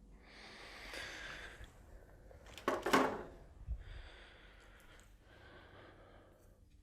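A man breathing close to the microphone: several soft breaths about a second apart, with one louder, sharper breath about three seconds in.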